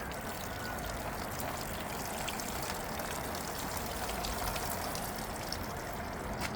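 Water steadily pouring and trickling out of a GM LQ9 V8 engine, water left trapped inside after the engine was power washed.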